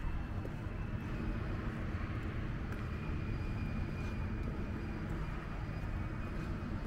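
Electric trains standing at a station platform: a steady low rumble with a faint, thin high whine that grows a little stronger about halfway through.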